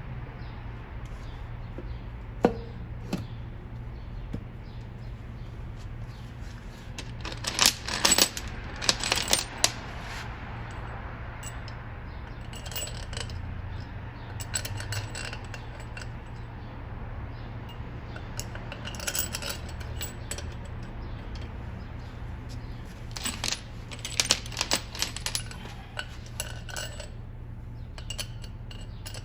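Metal tools and bolts clinking and rattling in scattered bursts during cylinder head installation, loudest in a cluster about eight seconds in and again near the end, over a steady low hum.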